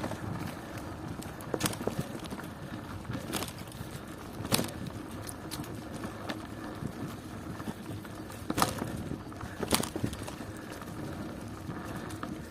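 Bicycle riding over a rough country road: steady tyre and rolling noise, with a few sharp irregular clicks and knocks from the bike jolting over bumps.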